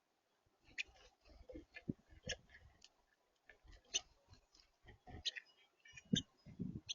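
Irregular clicks and taps on a smart bird feeder, a bird pecking at seed, with a few low thumps; the loudest comes near the end.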